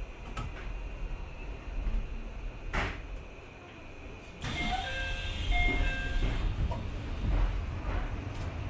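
Electric commuter train running, heard from the driver's cab as a steady low rumble with a couple of sharp clicks. About halfway through, a burst of noise comes in with a string of short, steady high tones at several pitches, lasting about two seconds.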